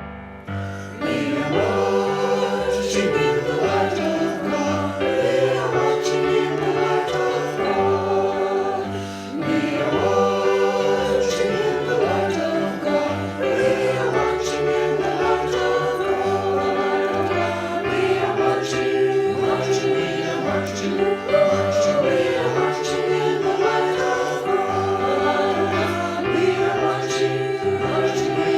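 A choir singing a hymn over steady keyboard accompaniment.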